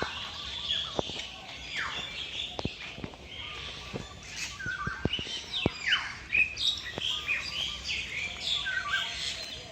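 Many birds calling at once in an aviary: a busy chorus of chirps, squawks and short downward-sweeping calls, with a few sharp clicks among them.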